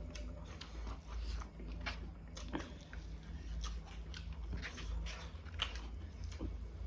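Close-miked mouth sounds of a person chewing a mouthful of egg curry and rice, a run of irregular short clicks, over a steady low hum.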